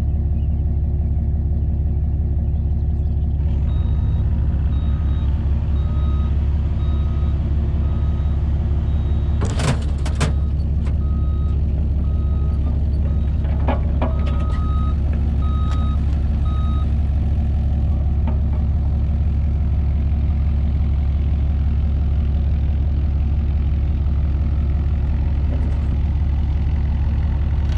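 Mini excavator engine running steadily while its travel/backup alarm beeps at an even rate of about one beep a second, starting a few seconds in and stopping about two-thirds of the way through. A couple of metallic knocks come around the middle.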